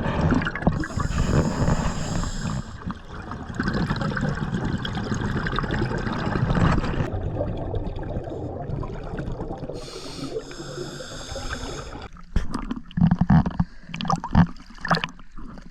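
Scuba diver breathing underwater through a regulator: two hissing inhalations about nine seconds apart, and between them the gurgling rush of exhaled bubbles. Irregular knocks and bumps follow in the last few seconds.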